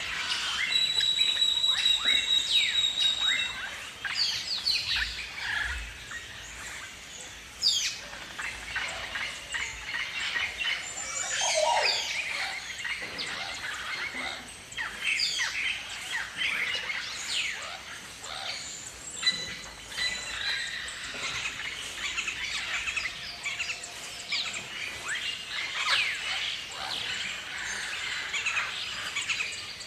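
A flock of galahs calling: many short, overlapping chirping calls throughout, with a steady high whistled note in the first few seconds.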